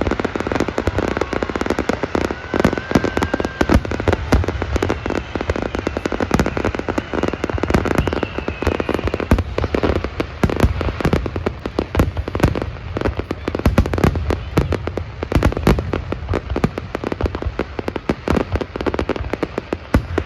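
Fireworks display going off in a rapid, unbroken volley of bangs and crackles, with a deep rumble under the bigger bursts.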